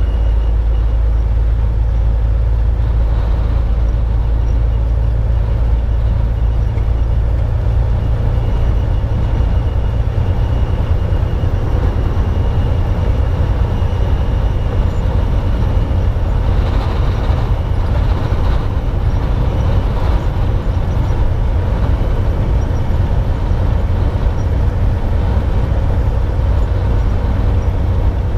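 Semi-truck cab noise while driving on the highway: a steady, loud, low rumble of the engine and road that does not change.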